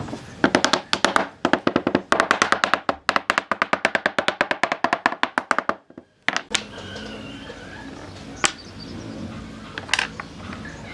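A rapid run of sharp, ringing taps, about nine a second, for the first half. It breaks off suddenly, leaving a faint steady background with a few isolated clicks.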